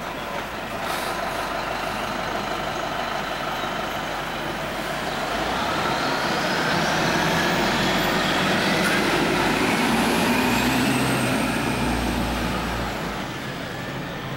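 Fire engine driving past on a response: its engine rumbling under a siren that slowly winds up in pitch and then winds down. It grows louder toward the middle and fades near the end.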